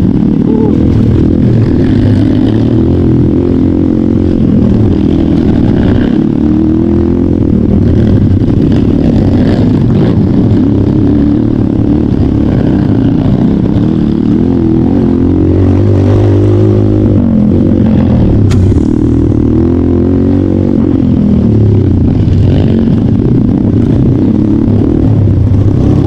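Trail motorcycle engine running under load, its revs rising and falling continuously, with a few knocks along the way.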